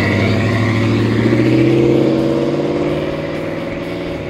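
Dodge Ram 1500 V8 running through a Flowmaster American Thunder cat-back exhaust with a 50 Series HD muffler, revved. The pitch climbs for about two seconds, then eases back down toward idle near the end.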